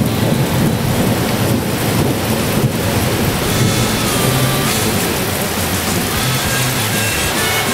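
Steady heavy rain with a low, continuous rumble of thunder from a thunderstorm.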